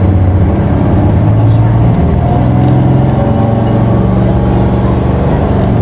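Isuzu Erga city bus's 7.8-litre inline-six turbo-diesel pulling hard as the bus accelerates away from a stop, heard from inside the cabin. The engine note is loud and steady, and it shifts in pitch about two seconds in.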